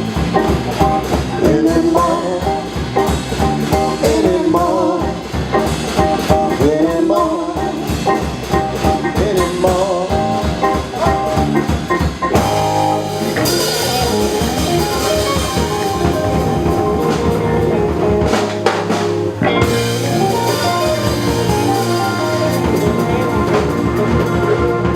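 Live blues band playing an instrumental passage with guitar and drum kit. About halfway through, cymbals wash over sustained chords, building toward the end of the song.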